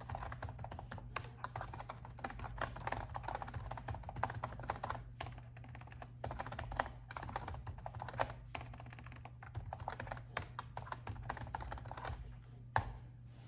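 Rapid, continuous typing on a laptop keyboard that stops about a second before the end, with one louder single key tap just after.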